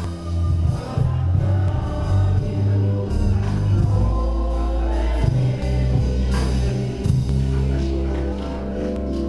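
Gospel music from a church band, with singing over a strong, moving bass line.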